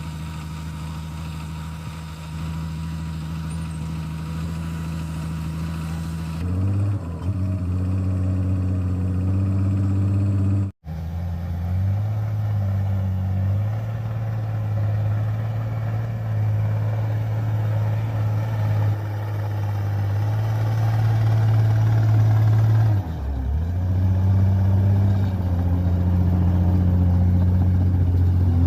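Bulldozer diesel engine running at a steady low drone, its note rising about six seconds in as it takes on load, with a momentary dip and recovery near the end. The sound cuts out for an instant about eleven seconds in.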